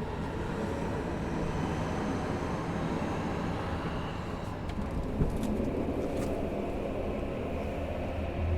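Inside a Tokyo Metro 05 series subway car at a station stop: a steady low rumble with a few light clicks and knocks. Right at the end, a faint rising tone begins as the Mitsubishi IGBT inverter starts to drive the train away.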